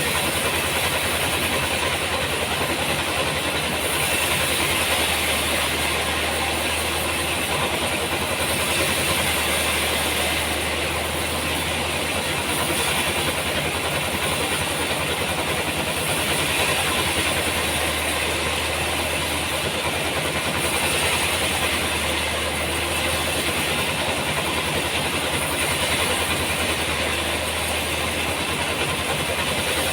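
Sawmill running steadily: a constant low machine hum under a loud, even noisy wash that swells and eases slightly every few seconds.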